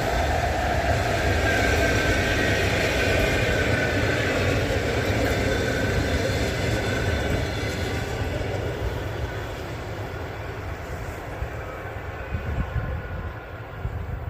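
EP2K electric locomotive and its passenger coaches passing by on the rails, with a steady loud rush of wheel and running noise and a few faint held tones in the first half. The sound grows gradually fainter over the last several seconds as the train draws away.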